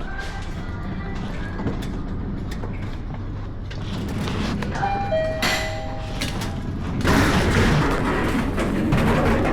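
Street traffic and motorbike noise with music playing over it, getting louder for the last two or three seconds.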